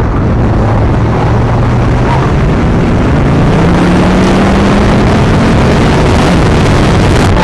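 Car engine under hard acceleration, its pitch climbing steadily through the rev range, with a short break near the end.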